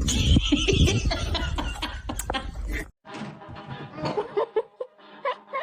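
A loud rumbling, rushing noise with scattered clatter, which cuts off suddenly about three seconds in. Then a person laughs in short, repeated spurts.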